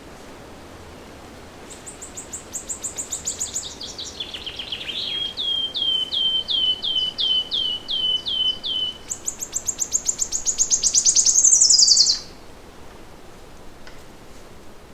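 A songbird sings one long song of several phrases. It opens with a fast high trill that drops in pitch, moves to a string of slurred hooked notes a little over two a second, and ends in a very fast high trill that rises and cuts off suddenly. A faint steady hiss of forest background lies under the song.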